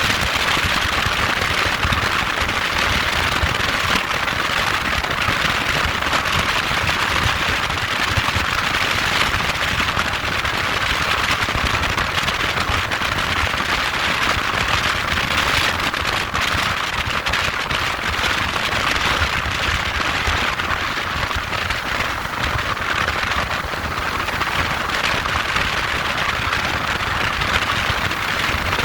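Motorcycle running: a steady hiss and crackle with a low rumble underneath, unbroken throughout.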